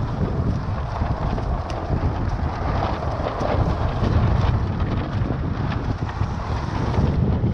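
Strong wind buffeting the microphone in a continuous low rumble, over the wash of surf and water.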